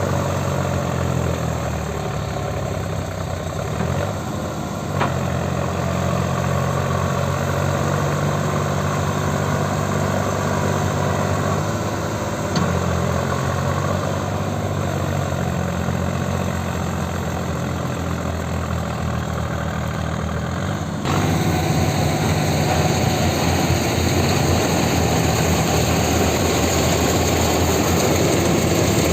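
Tractor diesel engine running steadily at low revs. About two-thirds of the way through, the sound changes abruptly and becomes louder and brighter.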